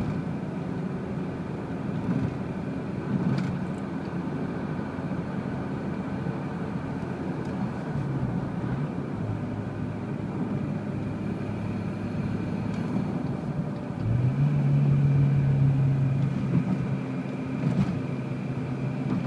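Seat Ibiza Cupra with an aftermarket Milltek exhaust idling steadily. About fourteen seconds in, the engine is held at a higher, steady speed for a few seconds and the exhaust note grows louder, then it eases back toward idle.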